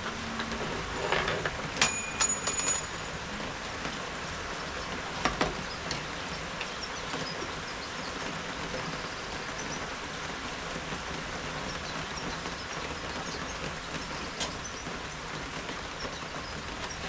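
Steady rain falling, with a few knocks in the first few seconds and a brief high tone about two seconds in.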